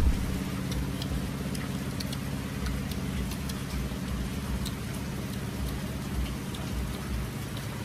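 Light rain falling, with scattered drips ticking, over a steady low hum.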